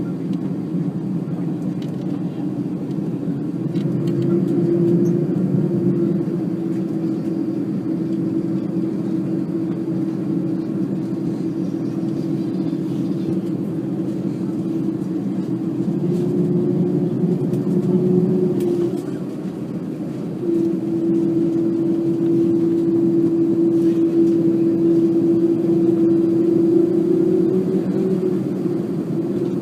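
Airbus A300-600 jet engines running at low thrust, a steady low hum with a clear steady tone. The sound dips briefly about two-thirds of the way through, then comes back with the tone stronger.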